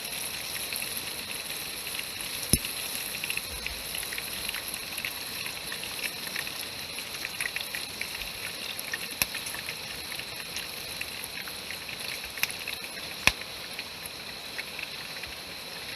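Food sizzling as it cooks, a steady crackle with a few sharp pops.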